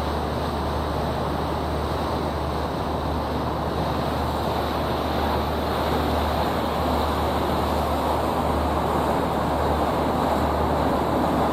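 Steady engine rumble and rushing water of a river tour boat under way, with wind noise mixed in.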